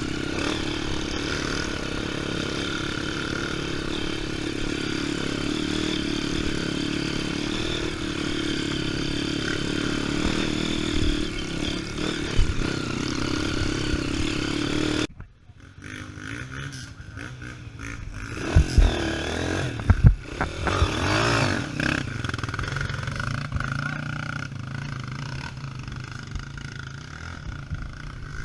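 Trail motorcycle engine running steadily under way. About halfway through it cuts off abruptly to a quieter engine sound with a few knocks and clatter.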